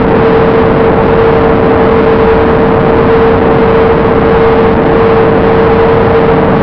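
Bynary 1200 FPV model plane's motor and propeller running at a steady throttle, heard from on board: a constant single-pitched whine over a loud rush of airflow, with no change in pitch.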